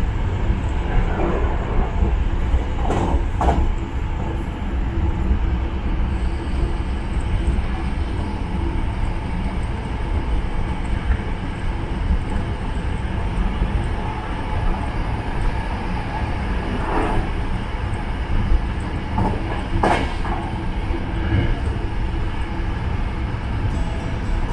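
Hankyu Kyoto Line electric train running at speed, heard from inside the front car: a steady rumble of wheels on rail, with a few sharp clacks from the wheels over the track.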